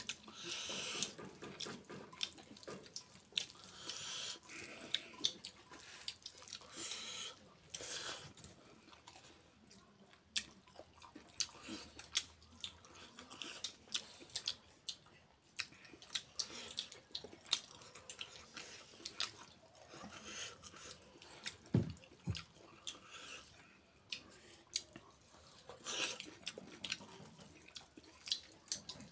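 Close-up eating sounds: wet, open-mouthed chewing and lip-smacking on chicken and rice, as irregular small clicks, with fingers working rice in a metal bowl. A short low thump comes about three-quarters of the way through.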